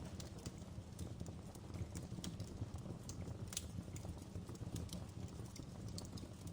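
Wood fire burning in a fireplace: irregular sharp crackles and pops over a steady low rumble of the flames, with one louder pop about three and a half seconds in.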